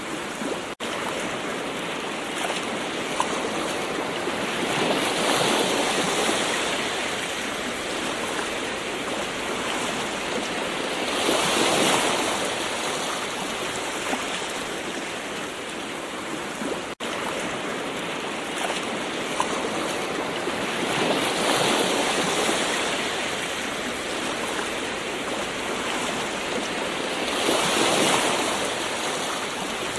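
Gentle ocean waves washing in: a steady wash of water that swells louder every several seconds, four times in all. It cuts out twice for a split second, about a second in and again about halfway through.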